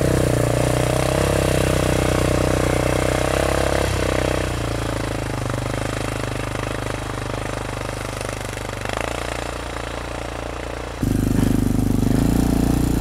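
Honda XR650 single-cylinder dual-sport motorcycle engine running steadily while being ridden through snow. It eases off about four seconds in and gets suddenly louder again near the end.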